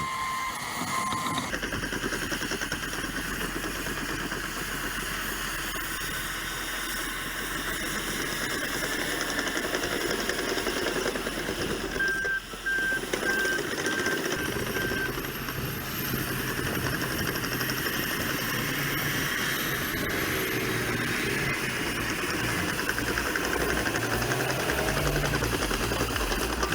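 Caterpillar D6 bulldozer's diesel engine running steadily under load as it pushes gravel, with a short beeping tone about twelve seconds in.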